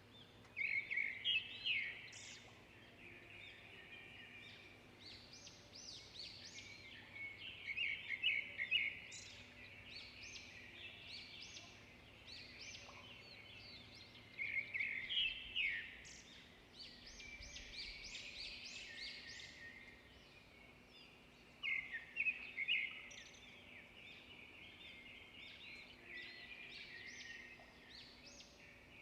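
Songbirds singing. A loud, fast chirping song phrase comes about every seven seconds, four times, with softer chirps and calls from other birds in between.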